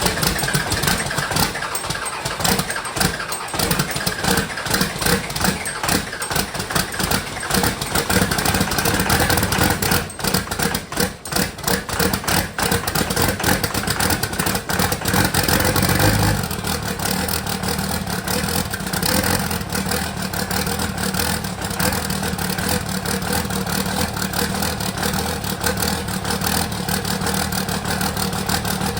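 Cummins 24-valve 5.9 L inline-six diesel running just after a cold start at about 15°F, exhausting through a hood stack. It runs rough and uneven, stumbling for about the first sixteen seconds, then settles into a steadier idle.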